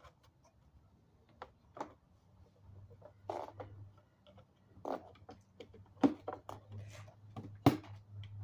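Hands handling the vacuum's filter parts: scattered light clicks and rustles, with two sharper knocks about six and seven and a half seconds in, over a faint low hum.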